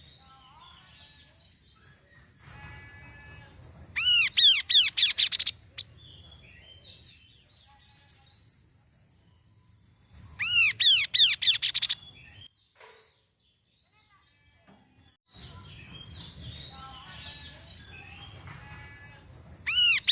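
Kaso-kaso bird singing vigorously: three loud bursts of fast, repeated arched whistled notes, about four seconds in, again near the middle and at the very end, with softer chirps and twittering between. A steady high-pitched tone runs underneath, and there is a brief near-silent gap after the middle burst.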